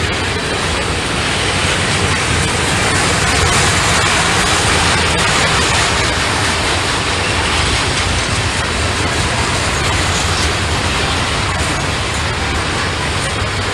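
Freight train passing close by: a steady rumble and rush of wheel and rail noise with a low hum underneath.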